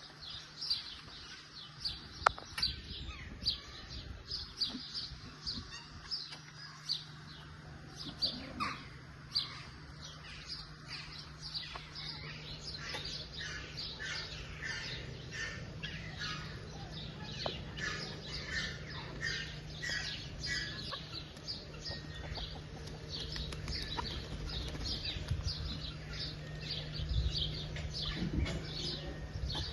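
Many small birds chirping, a dense run of short, rapid calls that thickens after the first dozen seconds, over a steady low hum.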